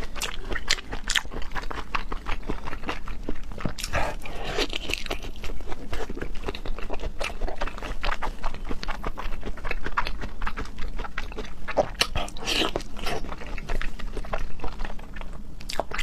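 Close-miked wet chewing and lip-smacking of raw seafood, thick-cut salmon and a stuffed prawn, with many short moist clicks and smacks.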